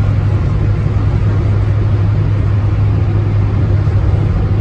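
Austin Allegro's A-series engine and road noise heard from inside the car, running at a steady pace: an even low drone with no change in pitch.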